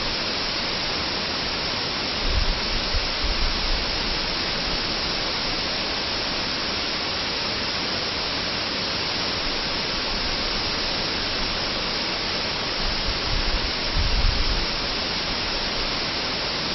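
Waterfall's steady rush of falling water. Twice, about two seconds in and again near fourteen seconds, a brief low rumble comes up under it.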